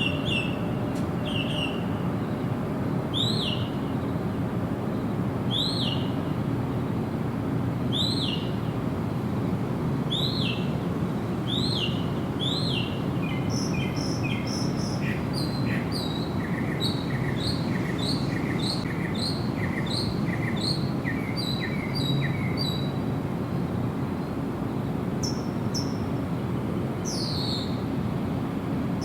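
Songbirds calling: short, sharp down-slurred notes repeated about every two seconds, then a quicker run of short notes roughly two a second through the middle, over a steady low background rush.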